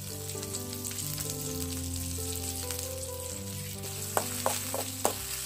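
Chopped onion, green chillies and curry leaves sizzling in hot oil in a steel kadai, stirred with a spoon. The spoon clicks sharply against the pan a few times near the end. Soft background music plays underneath.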